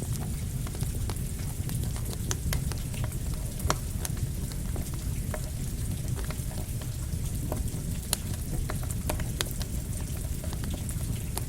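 Campfire crackling with irregular sharp pops, over the steady hiss of rain.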